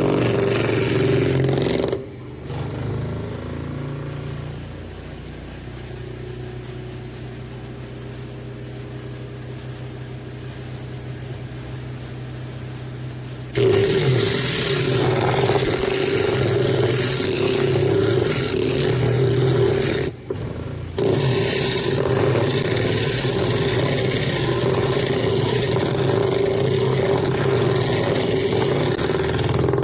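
Homemade disc sander, driven by a treadmill massager motor, running: a steady motor hum with a harsh hiss over it. It drops abruptly to a quieter hum about two seconds in, comes back loud about halfway through, and breaks off briefly about two-thirds of the way in.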